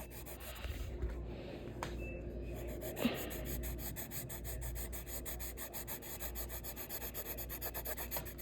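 A colouring tool rubbing on paper in quick back-and-forth strokes as an area of the drawing is filled in with colour.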